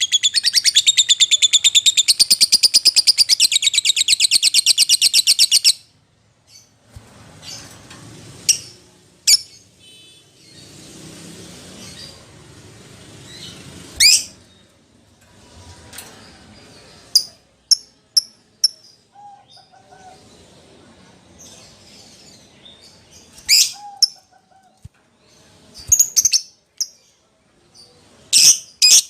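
Lovebird calling: a loud, fast, shrill chattering trill for about the first six seconds, then scattered single sharp chirps, with a quick run of chirps near the end.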